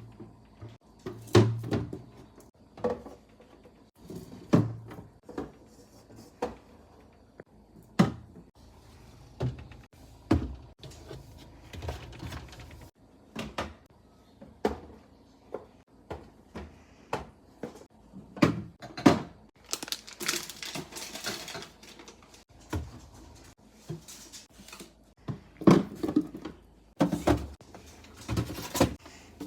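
Irregular knocks and clunks of containers and food items being set down and shifted around inside a refrigerator, with about two seconds of rustling about twenty seconds in.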